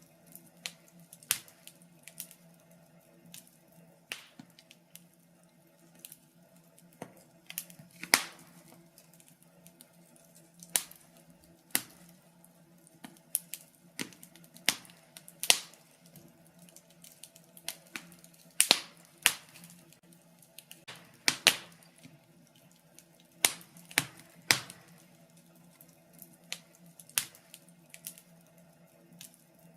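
Wood fire in a fireplace crackling, with irregular sharp pops, a few of them much louder than the rest.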